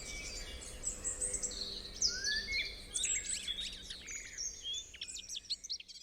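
Several songbirds calling at once in a forest: many short overlapping chirps and high whistles, with a rising whistle about two seconds in. The faint background hum drops away near the end.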